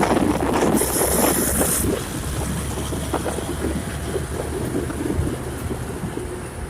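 Road traffic with wind buffeting the microphone: a heavy vehicle's low engine rumble, loudest with a high hiss in the first two seconds, then fading away.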